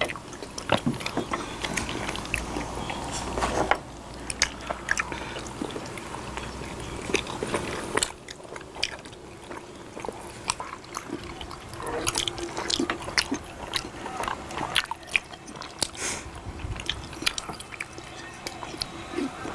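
Close eating sounds: people chewing soft rice cakes (tteok) and sipping cold sujeonggwa, with many small, sharp mouth clicks.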